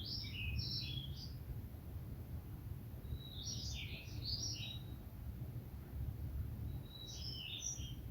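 A songbird singing three short, high, jumbled phrases a few seconds apart, each opening on a brief whistled note, over a steady low rumble.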